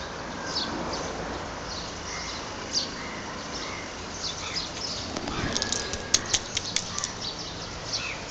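Small birds chirping again and again over a steady street hiss, with a quick run of sharp clicks about six seconds in.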